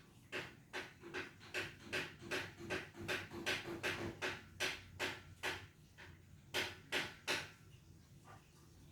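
A cat licking its fur while grooming itself: a steady run of short rasping tongue strokes, about two and a half a second, a brief pause, then three more strokes.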